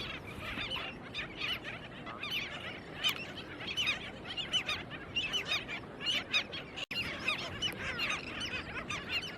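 A flock of seabirds calling constantly, many short, high calls overlapping one another. The sound drops out for an instant about seven seconds in.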